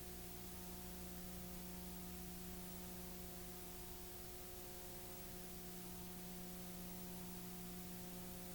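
Faint steady electrical hum, a low tone with several higher overtones, over a constant hiss.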